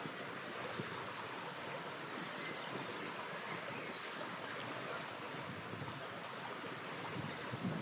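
A river running steadily, with small birds chirping repeatedly above it and an occasional sharp crackle from a campfire.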